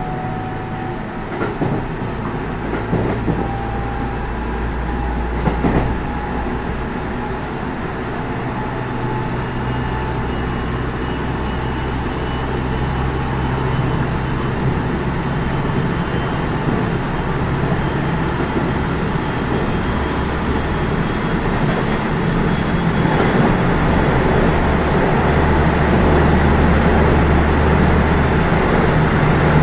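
Running sound inside a motor car of a JR West 207 series 0-番台 electric multiple unit with a power-transistor VVVF inverter: steady wheel and track rumble with thin inverter and traction-motor whine lines, growing slowly louder. A few sharp clicks from rail joints come in the first several seconds.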